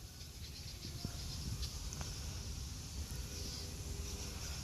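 A flock of small birds giving faint, scattered high chirps over a steady low rumble.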